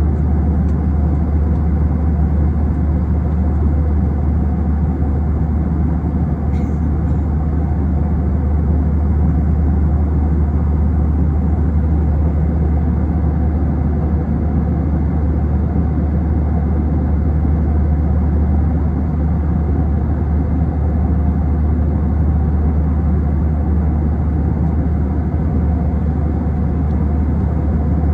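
Steady cabin noise inside an Airbus A321: a constant deep rumble of the engines and airflow, with one faint click about six and a half seconds in.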